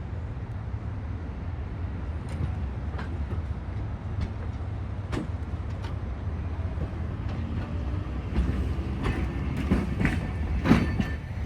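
A train rumbling steadily at the station, with sharp metallic knocks and clanks. The knocks are scattered at first, then come closer together and louder towards the end.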